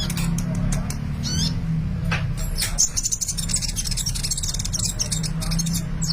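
Sunbird (kept 'kolibri') in full song: quick high sweeping notes, then from about halfway a fast, dense high trill. A steady low hum runs underneath.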